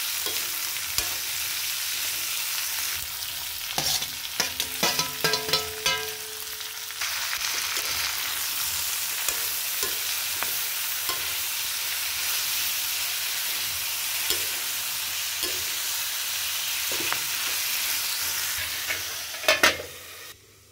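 Dried meat and vegetables sizzling in a frying pan while being stirred with a metal spoon, with scraping clicks against the pan. About four seconds in comes a run of ringing metallic clinks lasting a few seconds, and near the end a couple of louder knocks before the sizzle cuts off suddenly.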